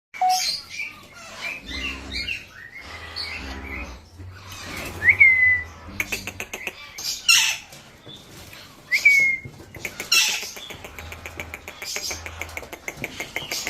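Parrots calling: harsh squawks at intervals, with two short whistled notes that rise sharply and then fall, among scattered clicks.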